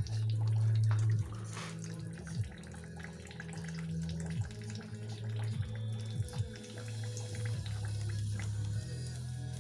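Antifreeze pouring and splashing out of a disconnected engine coolant hose as the cooling system drains, with a steady low hum underneath.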